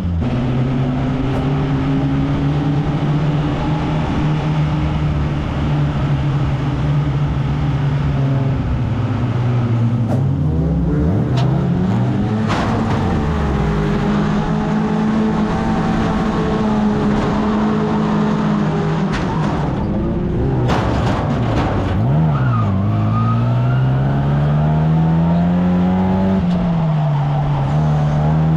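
1300cc stockcar engine racing hard, its pitch dropping sharply twice as the car lifts off and then climbing again under acceleration, with a few sharp knocks about halfway through and about two-thirds of the way in.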